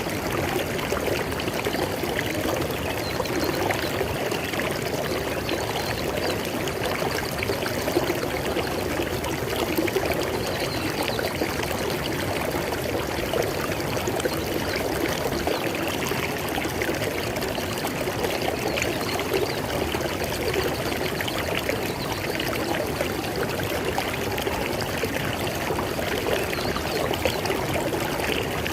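River water flowing and splashing in a steady rush.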